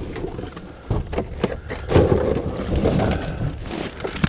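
Rummaging through junk in a dumpster: a quick, irregular run of knocks, clatters and rustles as items are shoved and pulled about.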